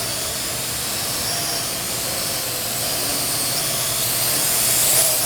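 Parrot AR.Drone 2.0 quadcopter's electric motors and propellers whirring in a steady hiss as it flies just after take-off, growing a little louder near the end.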